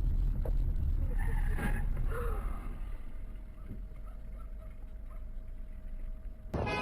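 Steady low rumble of a car driving, heard from inside the car, which eases off about halfway through; a different, sudden sound cuts in just before the end.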